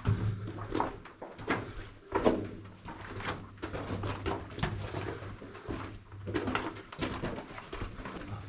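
Irregular footsteps on loose rock and gravel, echoing inside an old mine tunnel.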